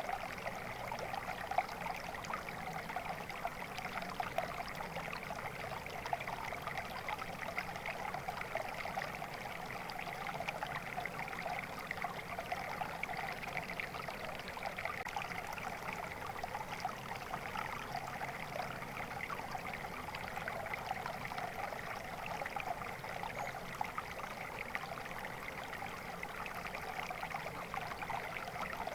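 Water flowing steadily in a stream, a continuous splashing babble with no change in level.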